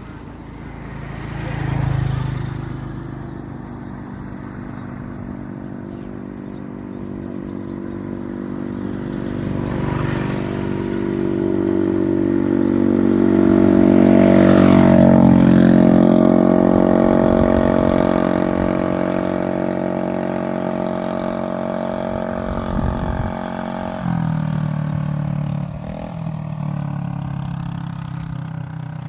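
A motor vehicle's engine running, growing louder to a peak about halfway through and then fading, as if passing by.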